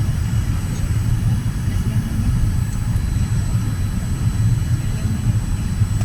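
Steady low rumble of a Boeing 787-10 airliner's cabin on approach, the engine and airflow noise heard from inside the cabin, with a faint steady high whine above it.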